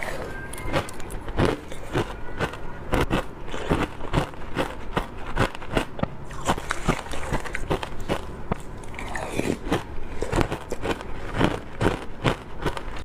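Close-miked bites into wet frozen matcha ice: a continuous run of sharp, crackling crunches as the ice is bitten and cracks apart.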